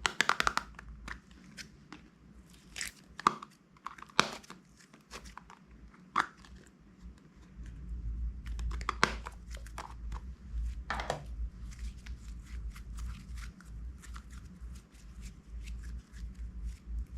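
Crunchy slime and its packaging being handled, making irregular crunches and crinkles. Sharp single crackles come first, then a denser run of fine crackling from about halfway through.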